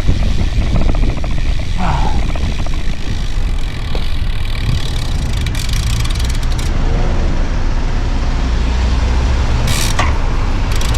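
Wind buffeting the microphone of a moving bicycle, heard as a steady low rumble, with road traffic passing and a short hiss near the end.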